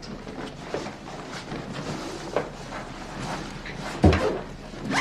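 Scattered light clicks and knocks, with a louder thump about four seconds in.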